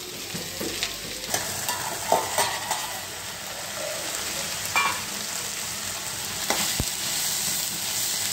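Chopped capsicum sizzling in oil in a steel pan, with a steady hiss. A steel spoon stirs and scrapes against the pan, making several short clinks.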